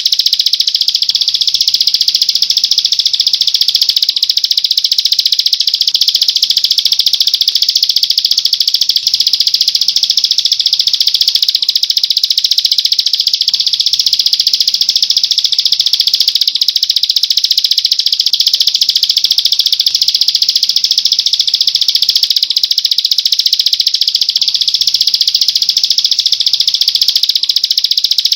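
Songbird singing a continuous, very fast high-pitched trill with no breaks.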